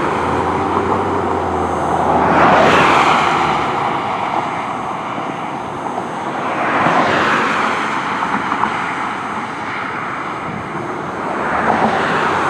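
Fire engine siren wailing, rising and falling in slow cycles about every four to five seconds, over the rumble of the truck.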